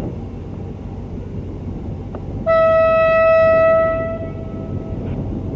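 Diesel locomotive horn sounding one blast about halfway through: a single steady tone that starts abruptly, holds for about a second and a half, then fades, over a low steady rumble.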